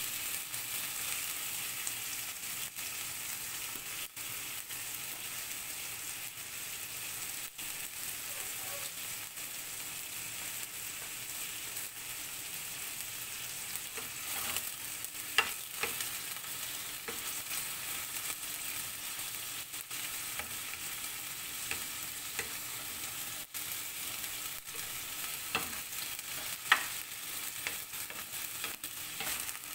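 Chicken livers sizzling as they fry in a stainless steel pan, stirred and turned with a spatula, with a steady high hiss throughout. Two sharp clicks stand out, one about halfway and one near the end.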